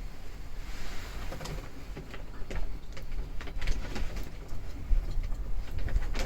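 Wood fire crackling, with irregular small pops and snaps over a low rumble.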